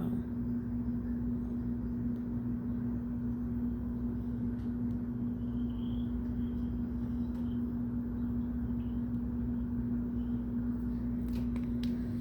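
Steady low mechanical hum with one constant tone running through it, and a few faint clicks near the end.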